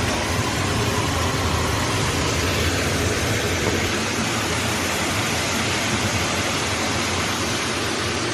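Ground beef frying in a pan on the stove, with a steady sizzling hiss.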